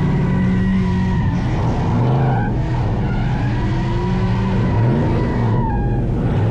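Burnout truck drifting: its engine revs up and down several times while the tyres squeal and skid.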